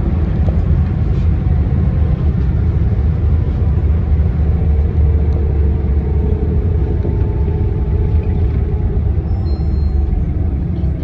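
City bus under way, heard from inside the cabin: a steady low rumble of engine and road noise, with a faint whine running through it.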